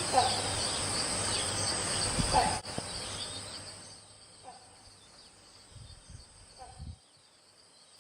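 Outdoor insect chorus: a steady high buzz with a pulsing trill beneath it, with four short calls spaced about two seconds apart. It drops sharply after about two and a half seconds, fades over the next second and a half, and is near silent near the end.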